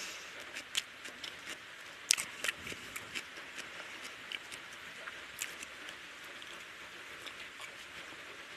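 Close-miked chewing and mouth sounds of a person eating rice and curry by hand: a run of small wet clicks and smacks at an uneven pace, over a steady hiss.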